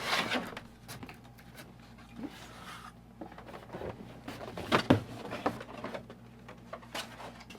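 Cardboard shipping box being opened and its packaging handled: scattered rustles, scrapes and knocks, loudest right at the start and again about five seconds in.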